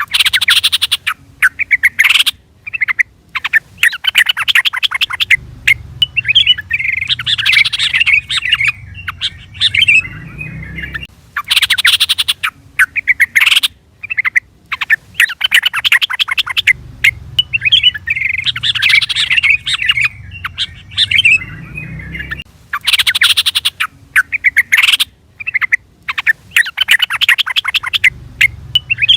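Yellow-vented bulbul (trucukan) calling: bursts of rapid, bubbly chattering notes with short gaps between them. The same sequence repeats about every eleven seconds, as a looped call track.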